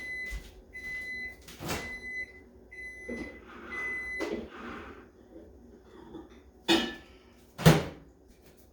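Microwave oven beeping at the end of its cooking cycle: a series of steady high beeps over about the first four seconds. Two loud knocks follow near the end.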